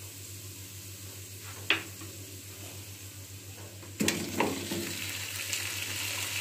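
Oil sizzling quietly under frying onions, ginger and garlic in a non-stick pot, with a single sharp click a little under two seconds in. About four seconds in, raw chicken pieces are tipped in off a plate: a few knocks as they land, and the sizzling jumps louder and stays up.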